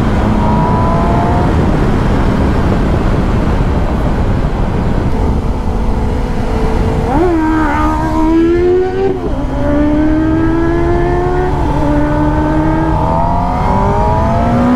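Sport motorcycle engine running at speed under the rider, its pitch climbing steadily and then stepping down at each gear change, several times, over a constant rush of wind and road noise.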